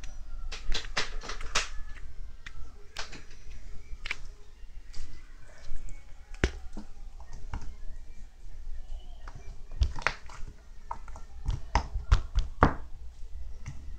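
Hands squeezing and pressing slime, making irregular sharp popping clicks as air pockets burst.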